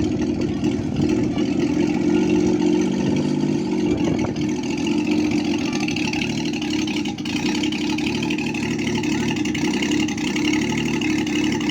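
Engine of a homemade jugaad helicopter running steadily at an even speed.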